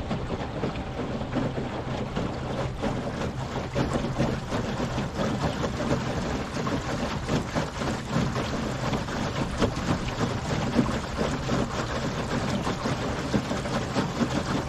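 Water rushing and splashing along the hull of a small boat under way at cruising speed, with a low steady hum from its Torqeedo 1103 electric outboard.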